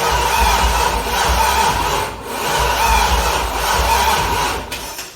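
Starter cranking the Corvette's junkyard LQ9 V8 without it firing, in stretches broken by brief dips about every two and a half seconds, then stopping abruptly. The owner suspects a weak battery, which he says drops to 10 volts while cranking.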